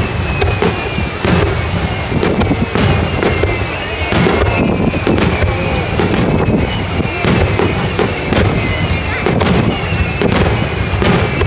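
Fireworks bursting in quick succession over the sea, a dense run of sharp bangs and crackles. High whistling tones glide slowly down in pitch through it.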